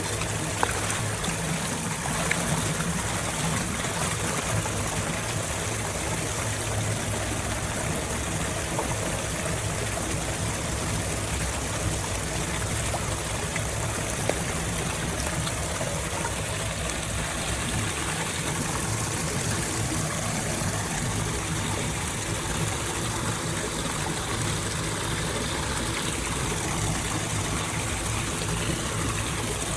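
Steady flowing water, as floodwater runs away through a storm drain, with a few faint clicks.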